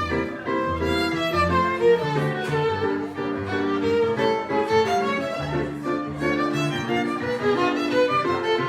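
Violin and piano playing a Brazilian choro together: the violin runs quick melodic lines over the piano's bass and chords.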